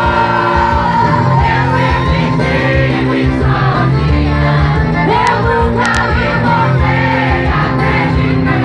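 Live band music with sung vocals and shouts from the crowd.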